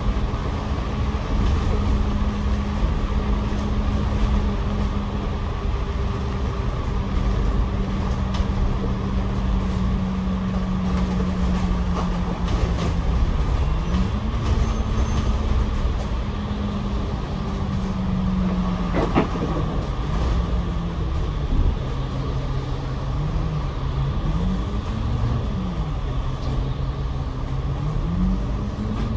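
Double-decker bus engine and drivetrain heard from the upper deck. The hum holds a steady pitch for about 13 seconds, then rises and falls several times as the bus speeds up and slows, with a single sharp knock about 19 seconds in.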